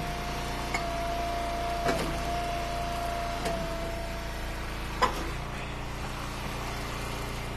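Hydraulic wood splitter running, with a steady whine for about four seconds as the ram pushes a firewood round through the wedge. A crack about two seconds in, and a single sharp knock about five seconds in.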